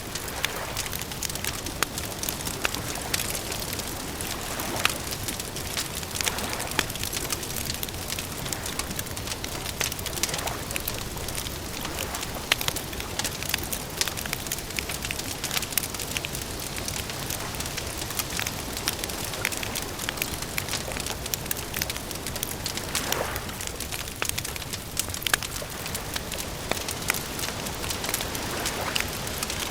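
Wood fire crackling, with many small sharp pops and snaps scattered over a steady hiss.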